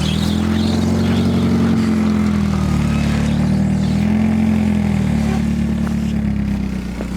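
BMW E36 316i's four-cylinder M43B16 engine revving up and down in slow swells, settling to a lower, steadier note near the end.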